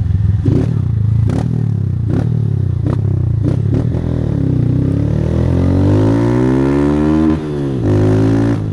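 A 160 cc single-cylinder motorcycle with an aftermarket Fortuna Trioval exhaust accelerating hard, with a few sharp knocks in the first half. The engine revs climb steadily, drop suddenly at an upshift a little past seven seconds in, then start climbing again.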